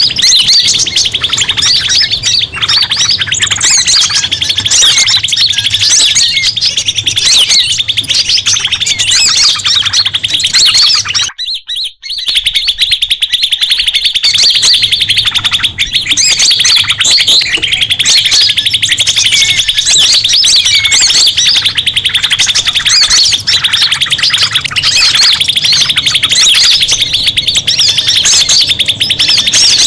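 Bird-lure recording of many birds chirping and calling at once, a dense, loud chatter meant to draw in forest birds. It cuts out for about a second around eleven seconds in, then resumes.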